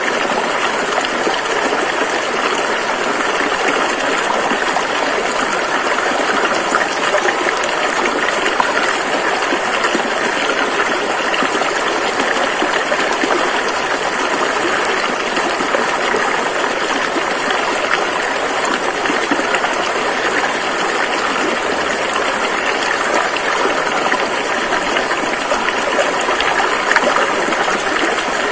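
River water rushing over rocks in a steady, dense wash of noise with a bright hiss and little low rumble.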